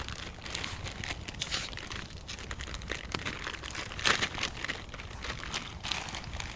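Packaging crinkling and rustling as it is handled, in irregular bursts, the loudest about four seconds in.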